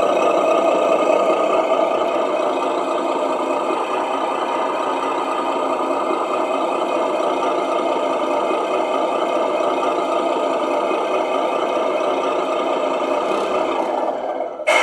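The Tamiya Mercedes-Benz Actros model truck's onboard sound unit plays a diesel truck engine idling steadily through its small speaker. Near the end there is a brief, louder change in the sound.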